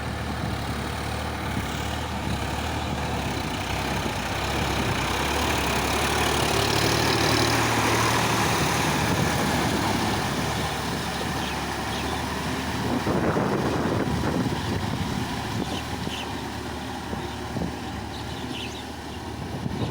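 Sonalika tractor's diesel engine running steadily under load, growing louder for a few seconds near the middle before easing off.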